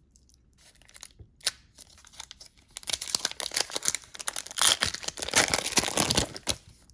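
A trading card pack wrapper being torn open. A few light rustles and clicks come first, then about three and a half seconds of dense crinkling and tearing from a little under three seconds in.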